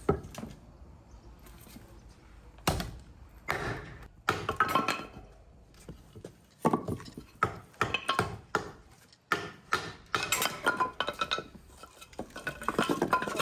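Kitchenware clinking and knocking: an irregular string of short clinks and knocks, some with a brief ringing tone, as dishes, utensils or pots are handled.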